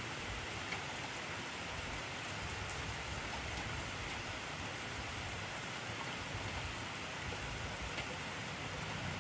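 Heavy rain falling steadily: an even hiss of rain with a few faint individual drop ticks.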